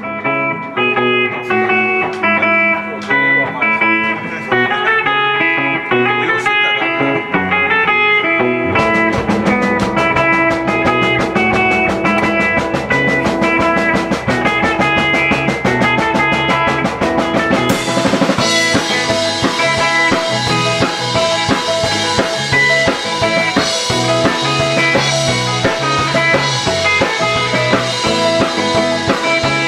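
Rock band playing live: guitar with drum kit, the drumming getting much busier about nine seconds in, and cymbals coming in strongly at about eighteen seconds.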